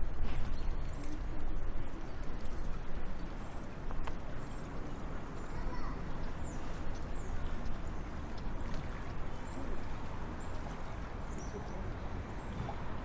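A small bird repeating a short, high chirp over and over, about one to two a second, over a steady background rush of outdoor noise.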